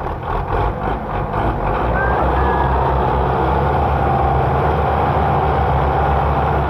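Tractor diesel engine running steadily. It gets louder and holds level about a second and a half in.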